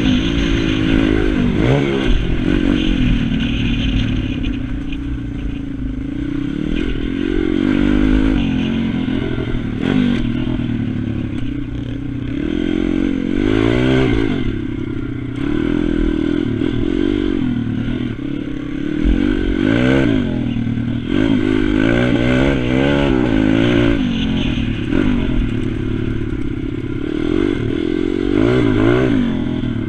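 Pit bike engine revving up and down over and over as the bike is ridden round a track, the pitch climbing and dropping every second or two.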